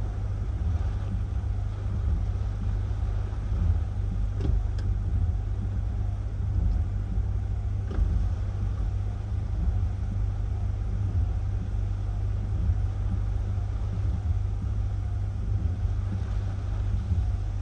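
Hurricane-force wind buffeting the microphone: a steady, loud low rumble that swells and dips with the gusts, with a few faint ticks about four and eight seconds in.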